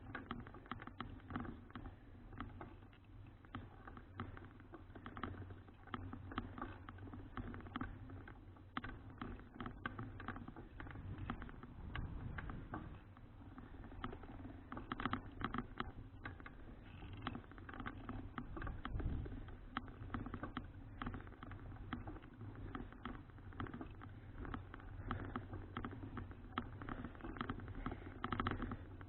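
Folding bicycle being ridden, with a dense, irregular rattle and clicking from the bike over a steady low rumble of tyres and wind.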